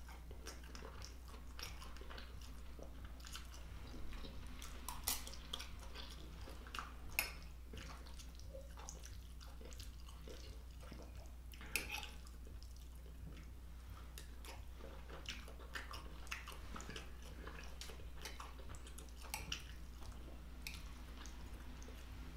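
Close-miked chewing and mouth sounds of a person eating a sausage and pepper stir fry with quinoa, with scattered soft clicks of a fork against the plate over a low steady hum.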